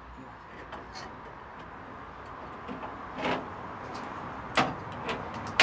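Sharp knocks and clicks from the recovery winch and its steel cable being worked, over a steady noise that grows slowly louder. The two loudest knocks come about four and a half and five and a half seconds in.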